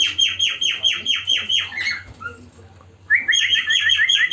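Caged small birds calling: a fast, even run of sharp downward-slurred chirps, about six a second, that breaks off about two seconds in and starts again about a second later, now mixed with short rising notes.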